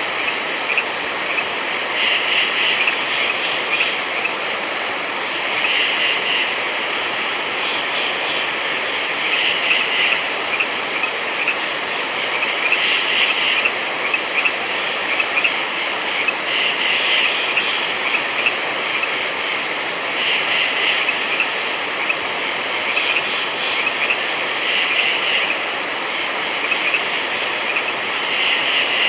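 A frog chorus: a steady dense din of many small calls, with one louder call about a second long repeating roughly every three to four seconds.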